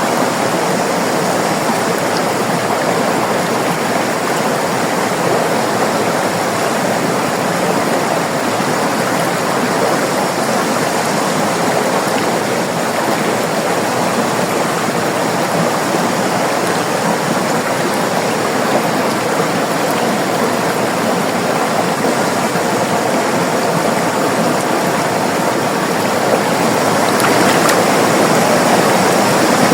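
River water flowing and rushing over rocks: a steady, full rushing sound, a little louder for the last few seconds.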